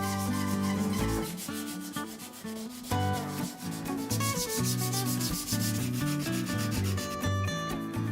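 Abrasive rubbed over the painted wooden handle of an old Morakniv knife in rapid, even back-and-forth strokes, stripping the chipping paint, with background music of held, changing notes underneath.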